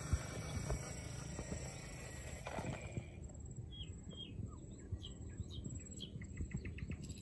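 Small birds chirping in short separate calls from about three seconds in, with a quick trill of ticks shortly before the end, over low background rumble and light knocks. Before the chirps, a steady hiss fades out.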